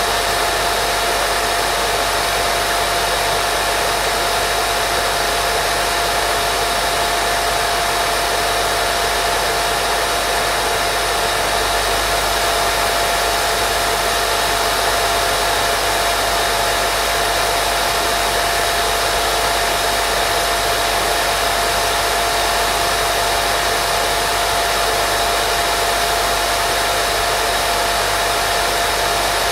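Continuous white noise for baby sleep: a steady, unchanging hiss weighted toward the upper range, with a faint constant tone running through it.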